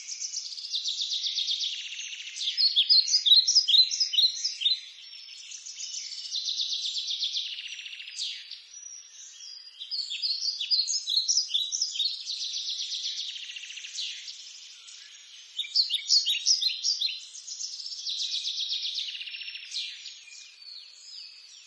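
Birds singing in a tropical rainforest: rapid high trills lasting a second or two alternate with quick runs of short chirping notes, phrase after phrase.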